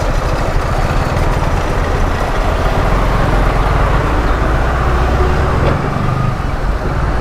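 Yamaha R15 V3's single-cylinder engine running steadily while riding, with wind and road noise on the helmet microphone.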